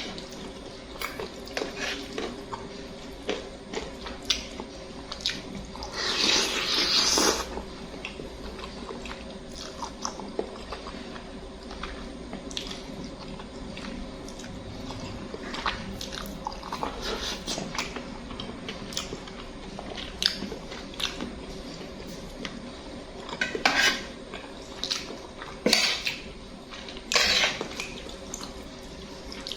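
Instant noodles being eaten from a bowl: a fork or spoon clicking and scraping against the dish again and again, with a few longer noisy slurps.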